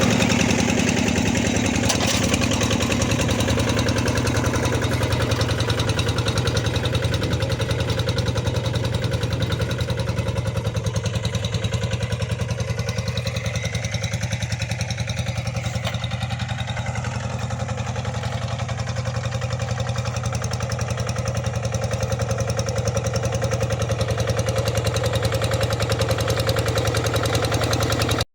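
Tractor engine running steadily while plowing a wet rice paddy, with a fast, even firing pulse; it gets a little quieter around the middle and then louder again.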